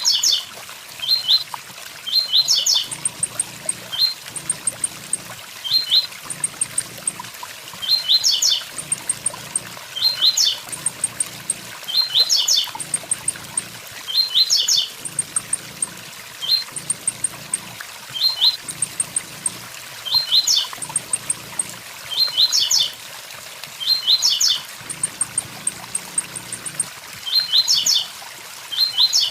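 Blue-black grassquit (tiziu) singing its short 'tui tui zel zel' phrase of quick upward-sweeping notes, repeated about every two seconds, over the steady rush of a waterfall.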